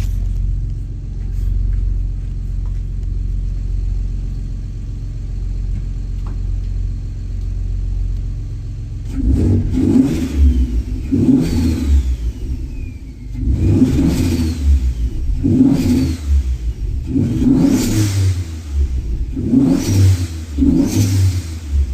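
Big-turbo VQ25DET V6 swapped into an Infiniti G35 coupe, idling steadily, then revved in short blips about every second and a half from about nine seconds in. Several blips are followed by a thin falling whistle.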